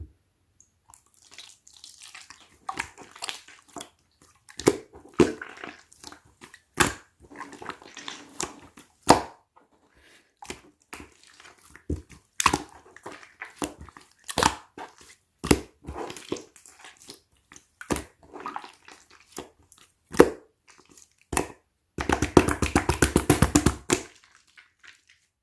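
Slime being squished and pressed by hand, making irregular sharp wet pops and clicks. Near the end, a rapid run of pops lasts about two seconds.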